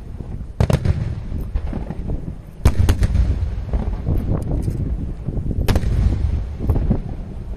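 Aerial firework shells bursting overhead, with continuous low rumbling booms. Sharp cracks stand out about half a second in, twice in quick succession near three seconds, and once more near six seconds.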